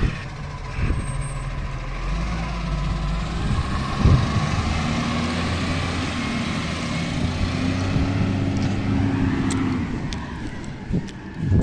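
Garbage truck's diesel engine running, rising in pitch about two seconds in and holding higher revs with a wavering whine over it, then dropping back near the end, with a knock partway through and a thump at the end.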